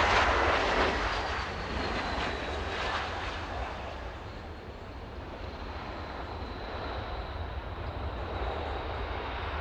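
Jet airliner engine noise during taxi: a steady rush and low rumble, loudest in the first second and then easing, with a faint high whine that drops slightly in pitch and then holds steady.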